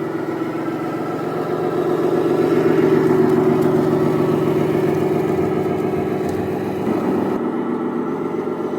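Simulated truck diesel engine sound from a radio-controlled Scania truck's sound unit, running steadily at idle. It swells a little louder about two to three seconds in, then eases back.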